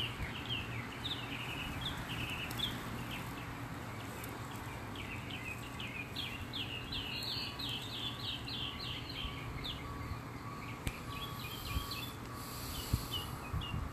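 Birds chirping, with a quick run of repeated short notes in the middle, over a steady low hum.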